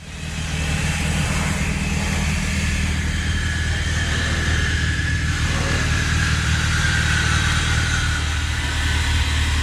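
Acura TL's V6 engine running steadily at an even, low pitch.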